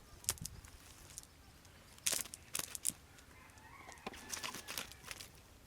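Chicken clucking and calling, mixed with several sharp clicks.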